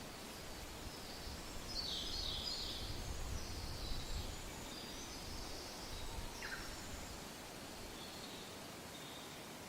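Soft wind blowing, swelling into a low gust a couple of seconds in and easing off, with birds chirping and singing in short high calls over it.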